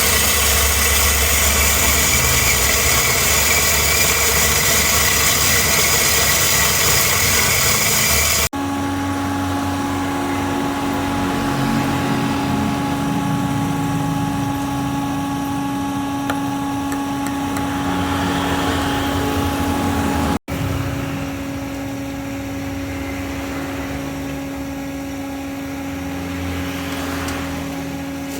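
Espresso-making machinery running in three cut-together takes: first a loud, hissing whir for about eight seconds, then, after an abrupt cut, a steady machine hum holding one constant pitch, cut off abruptly again about twenty seconds in before the hum goes on.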